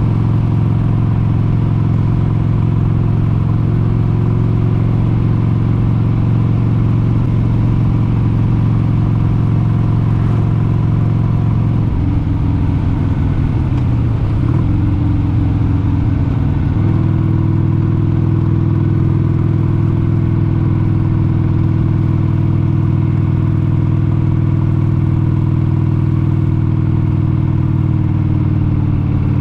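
1996 Harley-Davidson XLH883 Sportster's air-cooled 883 cc V-twin running steadily under way. About halfway through, its note wavers and dips for a few seconds, then settles steady again.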